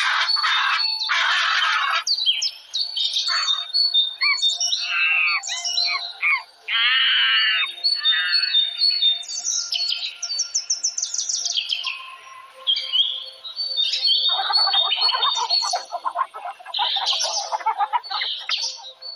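Birds calling: a run of whistled, chirping songs with quick rising and falling notes, then harsher squawking calls in the last few seconds.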